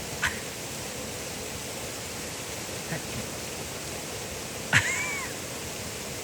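Steady rush of waterfall water, an even hiss. Brief sharp sounds cut through it, the loudest near five seconds in.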